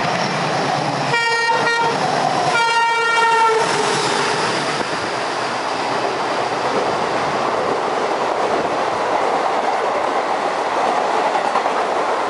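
A WDG3A diesel locomotive's horn sounds two blasts about a second and a half apart, then the steady rushing rumble and wheel clatter of passenger coaches running through the station at speed.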